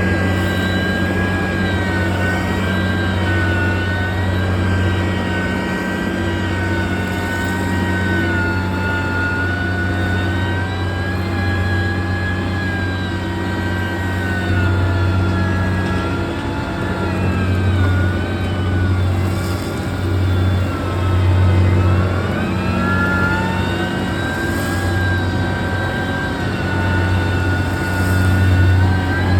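Engine of heavy road-construction machinery running steadily under load, with a low hum and a whine above it that slowly rises and falls in pitch.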